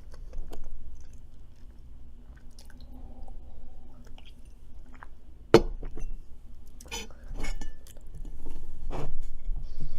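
A person chewing and eating food close to the microphone, with scattered small clicks and a sharp knock about five and a half seconds in.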